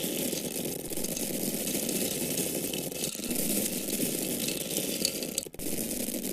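Dried grains, taken for corn kernels, falling in a continuous stream, a dense steady spill of many small hits, with a brief break about five and a half seconds in.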